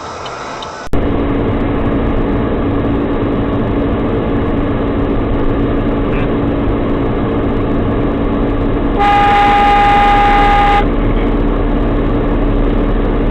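Steady vehicle engine and road noise, with a car horn sounding for about two seconds past the middle.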